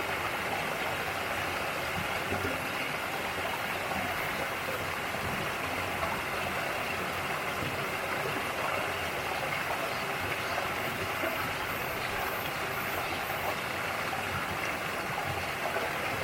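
Mountain valley stream rushing steadily over rocks, an even, unbroken rush of water.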